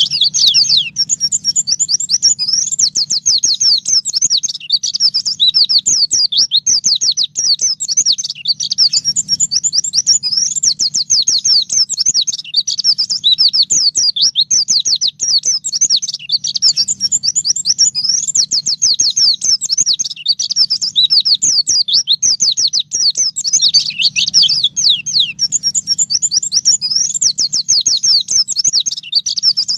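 White-eye (pleci) singing a long, unbroken, rapid twittering song of quick falling high notes, the wild 'ngalas nembak' style used as a training recording.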